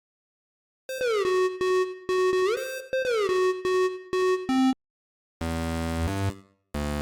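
8-bit style synthesized chiptune sounds. After a second of silence comes a run of short pulsing synth notes whose pitch slides down, holds, then slides back up, twice. A pause follows, then blocks of buzzy, low synth chords.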